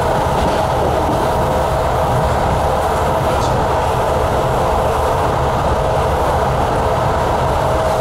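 Commuter train running steadily at speed, heard from inside the passenger car: an even rumble of wheels on rail with a constant hum above it.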